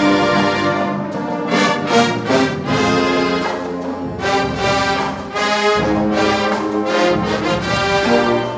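Marching band brass section playing loud held chords that change every second or so.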